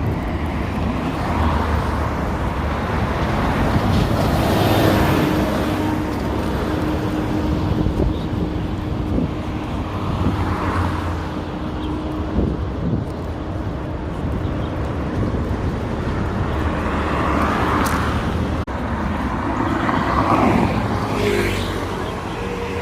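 Street traffic: a steady rumble of road vehicles, with several cars passing one after another.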